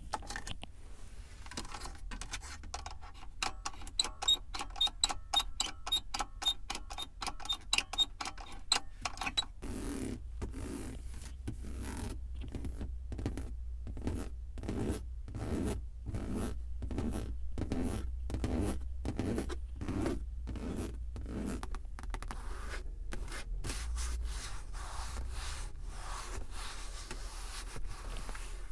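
Hands working a car's surfaces for ASMR: quick fingertip tapping with a faint ringing tone, then even rubbing strokes about two a second from about ten seconds in, fading to softer, continuous rubbing near the end.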